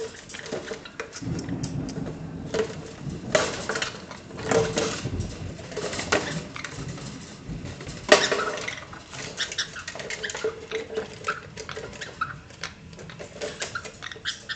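Pet bird's toys clicking and clattering irregularly as they are pecked and knocked about, with a low rumbling scuffle in the first half and one sharp knock about eight seconds in.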